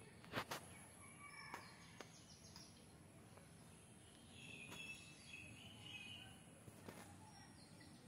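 Faint, soft bird chirps in two spells, with a few sharp clicks, the loudest just after the start.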